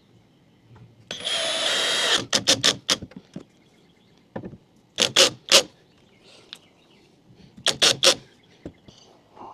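Power drill running for about a second, driving a screw, followed by three short clusters of sharp clicks and knocks.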